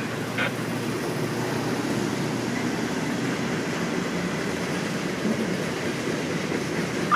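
Norfolk Southern freight train rolling past, a steady rumble of wheels on the rails.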